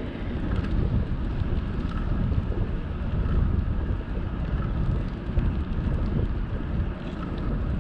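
Wind buffeting the microphone of a camera mounted on a moving bicycle, a steady low rumbling roar that rises and falls slightly.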